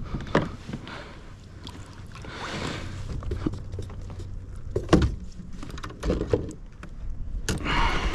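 Knocks and clicks of tackle and handling on a kayak while a hooked fish is brought in, with two brief rushing noises, about two and a half seconds in and a louder one near the end.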